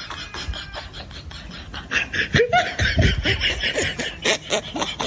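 A person laughing, a run of short repeated laughs that grows louder about two seconds in.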